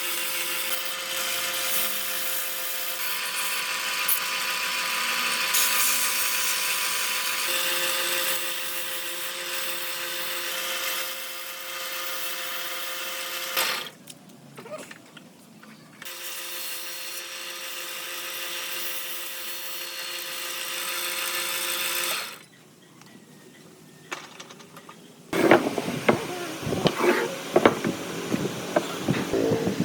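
An electric power tool working wood runs steadily with a whine of several fixed pitches, stops, and then runs again for a few seconds. Near the end comes a run of irregular sharp knocks and taps.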